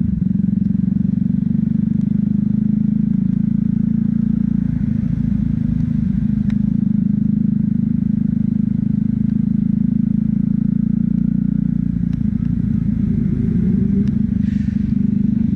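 Motorcycle engine running at a steady pace while riding in traffic, a continuous low drone that shifts slightly in pitch a few times.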